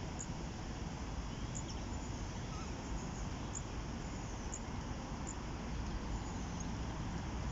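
Steady rushing of flowing river water, with about five short high chirps scattered through it.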